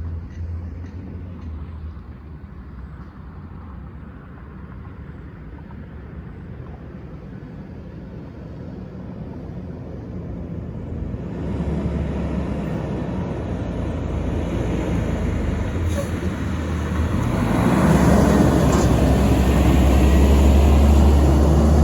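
Garbage truck's diesel engine running and drawing nearer, its low rumble and road noise growing steadily louder through the second half.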